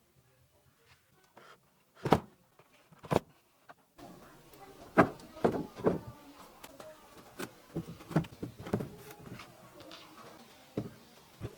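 Irregular knocks, taps and clicks of hand work with wood and bamboo parts: two separate knocks about two and three seconds in, then a denser run of taps and clicks.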